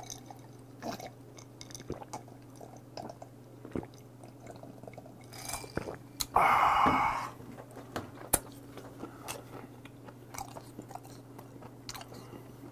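Close-miked chewing of raw shrimp and tuna sashimi: small wet mouth clicks and smacks. There is one louder sound, under a second long, just past the middle, and a steady low hum underneath throughout.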